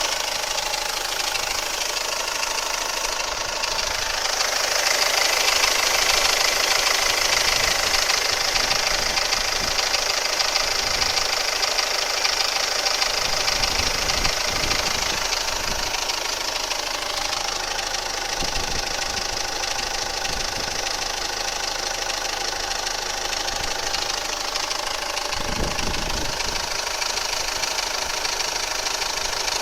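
Warmed-up D20DTF engine idling steadily, with an extraneous noise in its running that the owner has recorded to find its cause.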